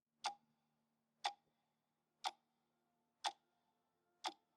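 Five sharp ticks, evenly spaced one second apart like a clock, over very faint low steady tones; no running water is heard.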